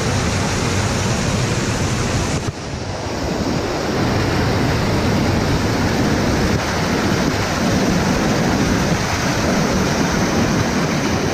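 Steady rush of a cascading waterfall, a loud even noise that drops suddenly about two and a half seconds in and then builds back up.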